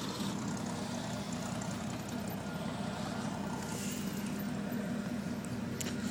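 Steady drone of a light aircraft's piston engine, running at an even speed.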